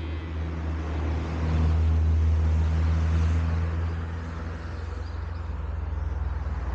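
A car's engine running as it drives past, its low note swelling about two seconds in and then fading.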